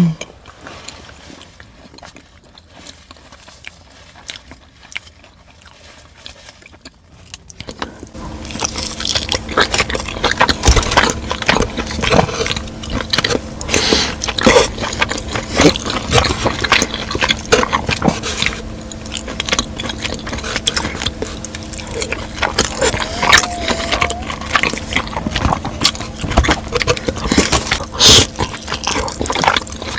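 Close-miked eating sounds: a person taking big bites and chewing, with many sharp wet clicks and smacks. About eight seconds in the chewing gets louder and a steady low hum comes in beneath it.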